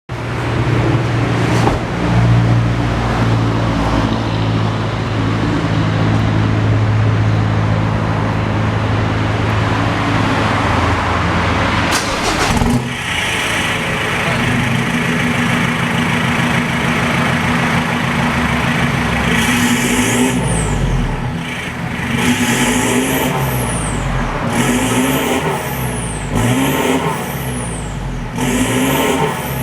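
A Mazda BT-50 Pro's 2.2-litre four-cylinder turbodiesel running through a stainless mid muffler. For the first twelve seconds it holds a steady note. Then, after a click, the revs rise and fall again and again.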